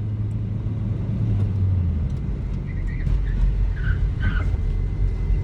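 Car engine and road noise as the car slows hard from about 60 mph. The engine note drops to a lower pitch about two seconds in, and a few faint short squeaks come near the middle.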